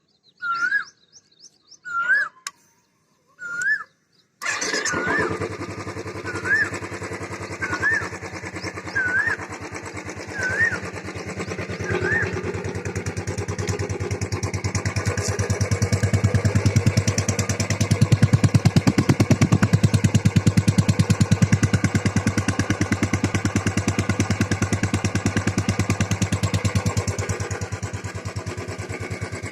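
Royal Enfield Bullet 350 ES BS6 single-cylinder engine starting about four seconds in, then settling into a steady, evenly pulsed idle through the exhaust, a little louder for a while midway.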